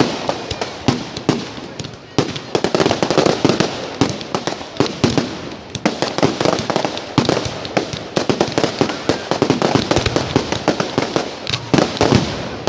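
A fireworks display in full flow: a rapid, unbroken barrage of bangs and crackling bursts, many shells going off over one another.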